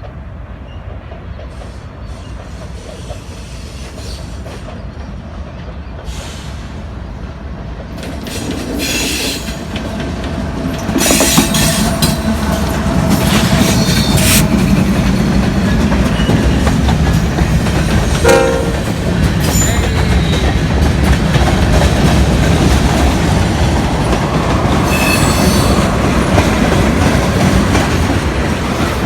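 Heavy freight train approaching and passing: it grows louder from about eight seconds in, and from about eleven seconds in the locomotives and cars rumble steadily, with wheels clacking and clicking over the rails.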